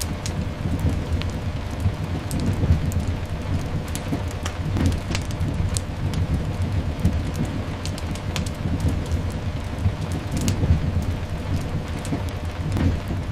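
Mixed rain ambience: steady rain over a continuous low rumble, with scattered sharp crackles and pops throughout.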